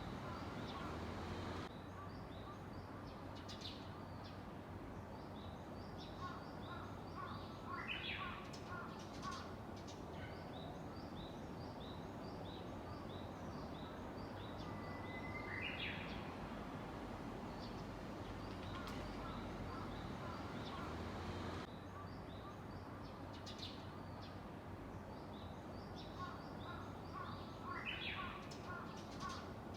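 Japanese bush warbler singing its "hoo-hokekyo" song three times, about 8, 15 and 28 seconds in; the middle phrase is a held whistle ending in a quick rising flourish. A steady run of short, high chirps continues throughout over a constant background noise.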